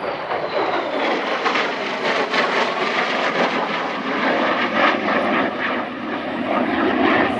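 F-35 Lightning II fighter jet passing with its single Pratt & Whitney F135 turbofan running, a loud steady jet roar with a rough crackle, and a faint falling whine in the first second.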